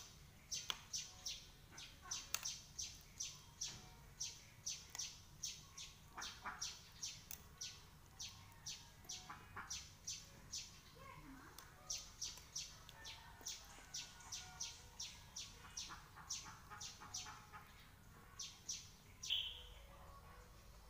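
A bird chirping over and over, faint: short high chirps in quick runs of about two to three a second, with one louder, slightly lower chirp near the end.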